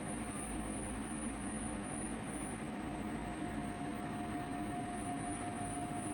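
Steady mechanical hum of automated poultry-house machinery, with constant whining tones over a low rumble.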